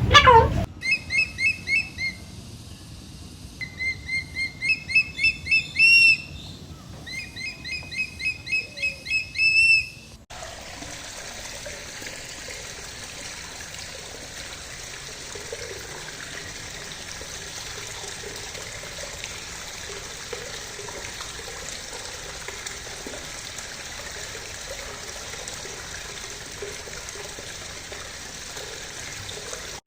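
A bird gives three runs of quick repeated calls over the first ten seconds, each run ending on a louder, higher note. Then comes a steady trickle of running water.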